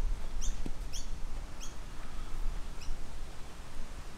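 A small bird chirping, short high notes repeated about twice a second that fade out about two seconds in, over a steady low rumble.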